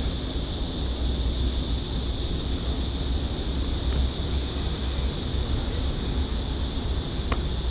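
Wind buffeting the microphone as a steady low rumble, under a constant high hiss, with one short sharp click about seven seconds in.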